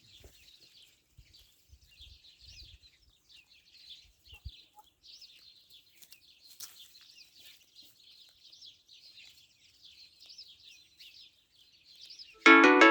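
A free-range chicken flock calling faintly, with many short, high chirps overlapping throughout. Plucked-string music comes in loudly near the end.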